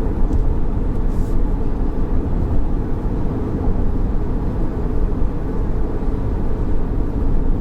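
Steady low rumble of road and tyre noise inside the cabin of a moving Geely Atlas crossover.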